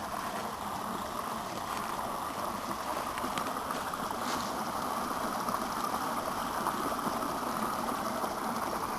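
Steady rushing noise of flowing water, as from a stream.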